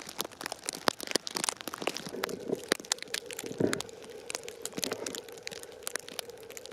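Irregular crackling and crunching, many sharp clicks in quick succession, with a faint steady hum coming in about two seconds in.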